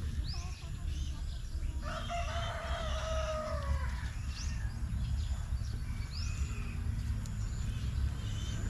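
A rooster crows once, a call of about two seconds that drops in pitch at the end. Short high chirps sweep upward every couple of seconds over a steady low rumble.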